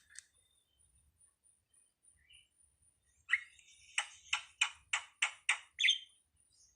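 A jalak (starling) calling. After about three quiet seconds comes a call, then a run of harsh, rapidly repeated notes, about four a second, for some two seconds.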